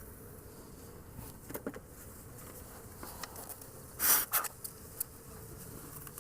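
Honeybees buzzing steadily around an open hive, with a few light clicks from handling and one louder short scrape about four seconds in.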